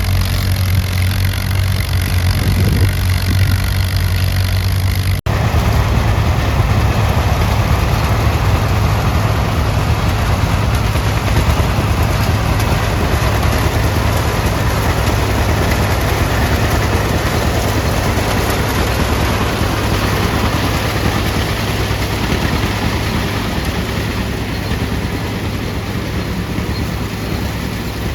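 Antique tractor engine running steadily while plowing. There is a brief dropout about five seconds in, after which the engine sound comes back fuller and noisier.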